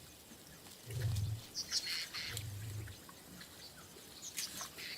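Two short, deep growls from lionesses feeding on a giraffe carcass, about a second apart, with small birds chirping in the background.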